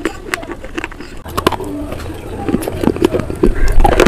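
Close-miked eating of edible clay and slate with a creamy paste: sharp crackling crunches and wet mouth clicks, with heavier crunching toward the end.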